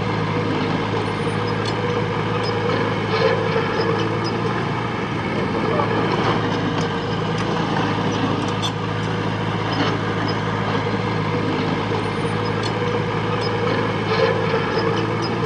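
Heavy-equipment diesel engine running steadily at a constant speed, with a few light clanks.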